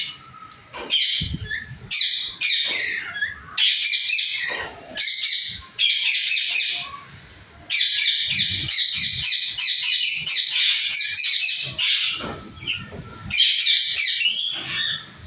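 Caged pet parrots chirping and chattering in quick, high-pitched bursts, with a long unbroken run of chatter in the middle and another burst near the end.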